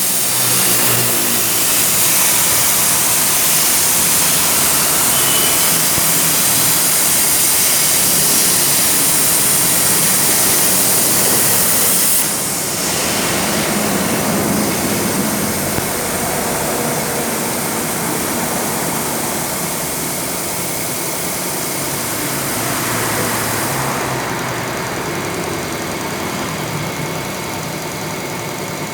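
CNC sheet-metal cutting machine for air ducts running with a loud, steady hiss. The hiss drops somewhat about twelve seconds in and changes again about eight seconds before the end.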